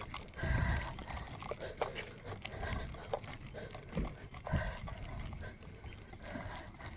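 Footsteps walking on a dirt trail, uneven soft thuds with small scuffs and clicks, the heaviest about half a second in and around four seconds in.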